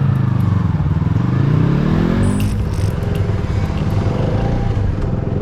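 Motorcycle engine under way, its pitch dipping and then rising as it accelerates. About two and a half seconds in it gives way to a steadier engine running at an even pitch.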